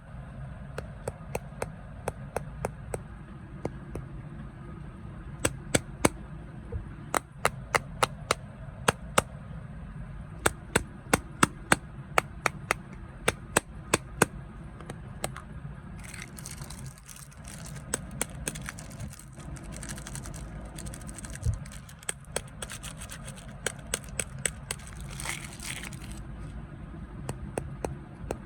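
Crunchy snacks being handled and broken: sharp cracking snaps in irregular runs, then a stretch of denser crackly rustling that ends about two seconds before the end.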